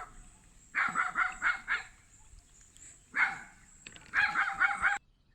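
A dog barking: a quick run of barks, one lone bark, then another quick run, stopping abruptly.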